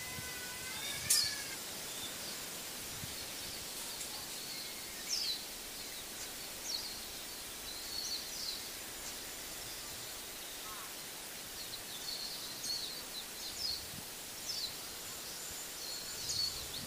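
Small birds chirping now and then, short high calls over a steady background hiss, with one louder call about a second in.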